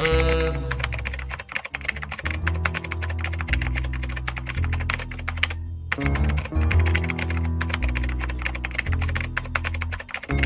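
Rapid computer-keyboard typing, a fast run of key clicks, over background music with a sustained bass line. Both break off briefly a little past the middle, then the typing resumes.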